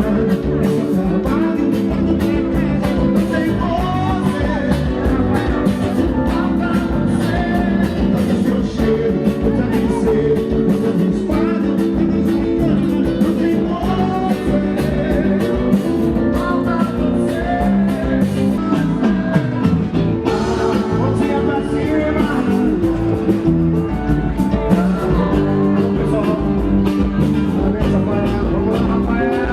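Band music with a steady beat, guitar and singing.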